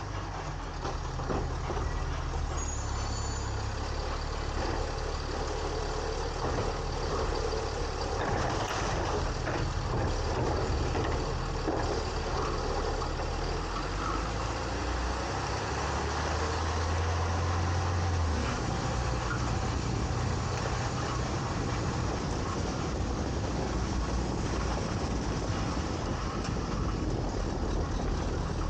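A side-loading garbage truck (Autocar ACX with a New Way Sidewinder body) at work: its engine runs steadily, its pitch stepping up and down as it powers the hydraulic arm and hopper, over a constant hydraulic and mechanical noise. Scattered metallic knocks and clanks come from the arm and hopper, most of them about 8 to 10 seconds in.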